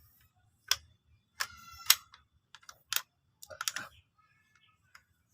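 Irregular sharp clicks and clinks of hard parts being handled, with a short ringing tone about a second and a half in and a quick cluster of clicks near the end.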